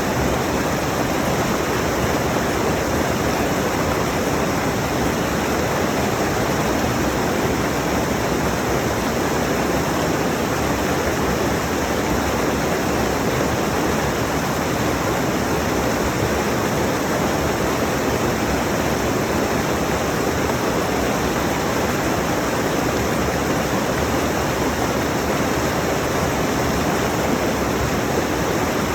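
Mountain stream rushing steadily over rocks, recorded close up: an even, unbroken water noise with no change.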